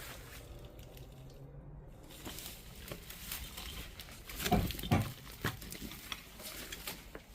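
Footsteps crunching and crackling over debris on a floor, with two heavier steps about four and a half and five seconds in.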